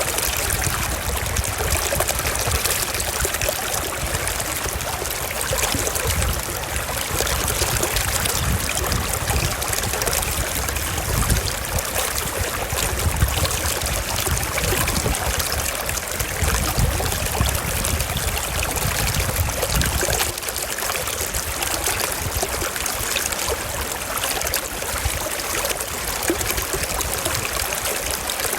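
Small stream running steadily over rocks, a continuous trickling and rushing of water.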